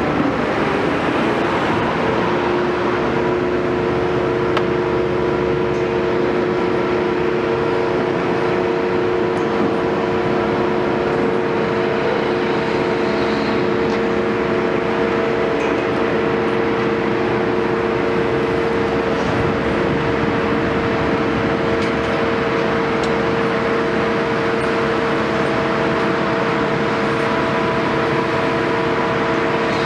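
Caterpillar 329E excavator running steadily, its engine noise joined about three seconds in by a steady whine of several tones.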